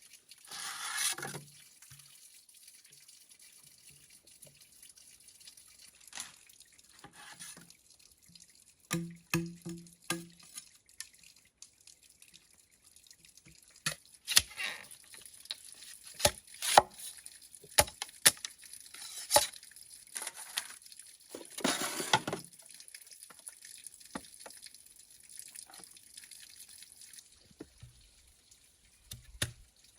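Water dripping and splashing in a few short bursts, among scattered small clicks and knocks.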